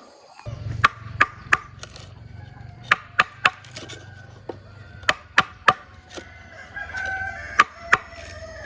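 Sharp knocks at an irregular pace, about a dozen, of a tool striking wood, with chickens and a rooster calling in the background.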